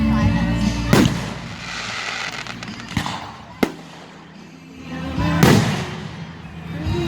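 Fireworks shells exploding: a boom about a second in, two sharp bangs a little past three seconds, and the loudest burst near the end with a crackling tail. Music plays underneath.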